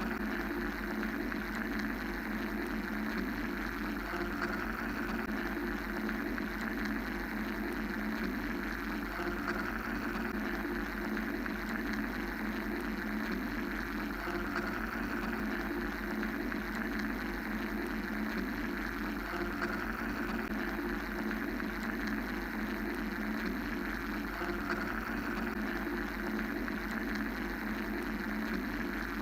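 Steady mechanical white-noise drone: an even, unbroken hum and hiss, heaviest in a low band with a softer rushing band above it.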